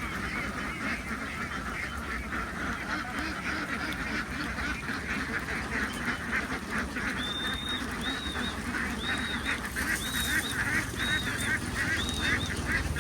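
A large flock of farm ducks quacking continuously, many short overlapping calls. From about seven seconds in, a high clear note repeats roughly once a second over the flock.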